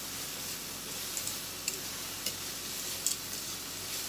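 Rehydrated fern shoots and carrot sizzling as they are sautéed in an oiled frying pan, tossed with metal tongs that click sharply against the pan a few times.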